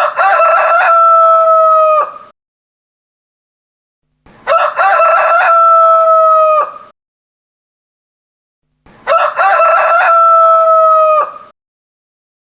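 A rooster crowing three times, each crow about two seconds long and starting about four and a half seconds after the last. Each crow is a broken opening followed by a long held note that falls away at the end. The three crows are identical, with dead silence between them.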